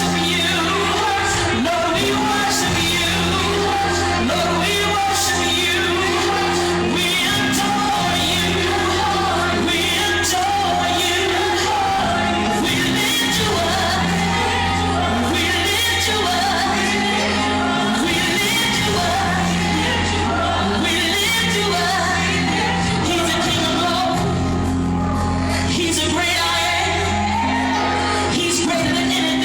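A woman singing gospel live over a band, her voice bending and sliding over held chords that change every few seconds, with steady drum and cymbal hits.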